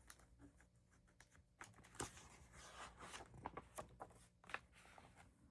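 Near silence with faint, scattered rustles and clicks of a picture book's pages being handled and turned.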